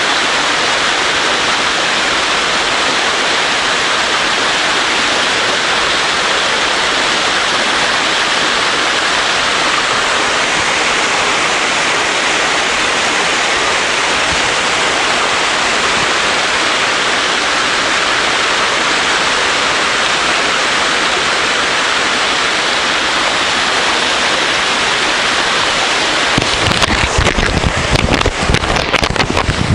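Waterfall: a steady, even rush of falling water. Near the end, irregular low crackling thumps join it.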